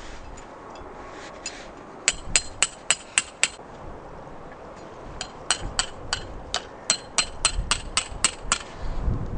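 Pegs being hammered in during tent or tarp setup: two runs of sharp, ringing hammer strikes, about six and then about a dozen, some three to four a second, with a dull thump near the end.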